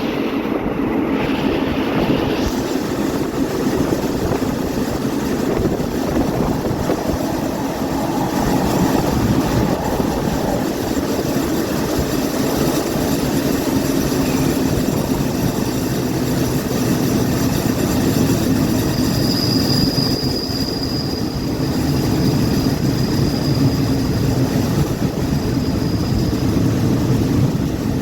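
Passenger train running along the line: steady rumble and rattle of the carriage on the rails. A faint high whine comes and goes in the second half.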